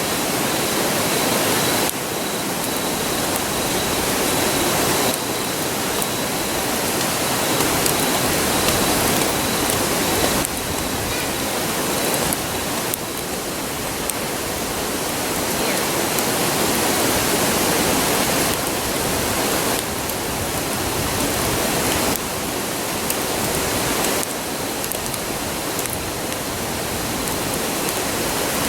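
River rushing steadily, a constant roar, with a few faint crackles and ticks from the campfire.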